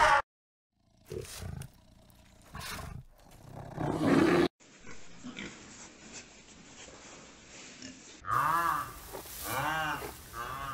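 A run of separate animal clips. First an elephant's rough calls close by, loudest about four seconds in. Then a quieter stretch with pigs in a pen, and from about eight seconds a rhinoceros giving several calls that rise and fall in pitch.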